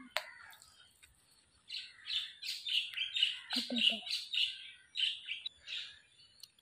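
A small songbird singing a quick run of high, short chirps, about three a second, starting a couple of seconds in and stopping shortly before the end.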